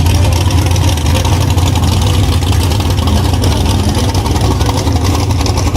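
A car engine running loudly and steadily close by, its exhaust a deep, rapid pulsing rumble with a hiss on top.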